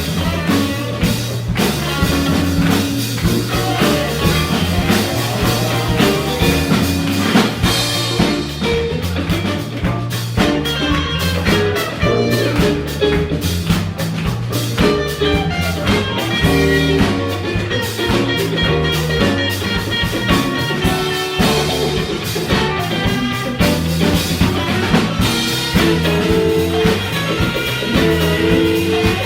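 Live funk band playing: a repeating electric bass line under a drum kit groove, with electric guitar and keyboards on top.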